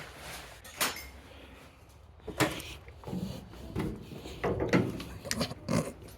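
A series of irregular knocks and clunks, sparse at first and coming closer together in the second half, like panels or doors being handled.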